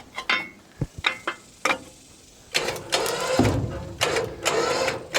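A winch pulling a 1962 Ford school bus, with a few clicks and knocks in the first half. About halfway through the winch motor starts again with a steady whine and a low rumble under load.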